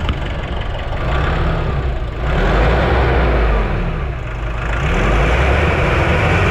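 Nissan NV350 van engine revved several times, its pitch rising and falling with each blip of the throttle. It revs up freely, and the mechanic judges it strong despite the owner's complaint of rough idle and low power.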